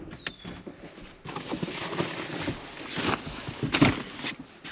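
Irregular knocks, taps and rustling, as of things or feet being moved about on a hard surface.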